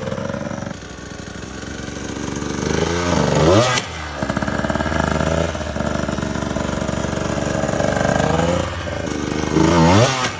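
KTM 150 XC-W two-stroke dirt bike engine running, revved up and back down twice: about three seconds in and again near the end.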